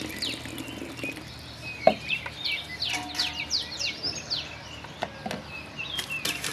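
Small birds chirping in quick, repeated downward-sliding notes, with a single sharp knock just before two seconds in and a few lighter clicks later.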